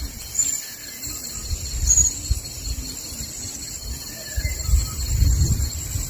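Forest insects, crickets or cicadas, buzzing steadily and high-pitched, with a few brief bird chirps, over a low rumbling of distant thunder that swells about four seconds in.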